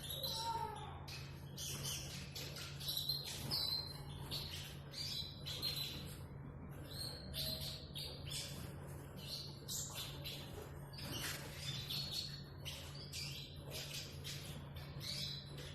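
Eurasian siskin twittering: a continuous run of quick, high chirps and short warbled notes, over a steady low hum.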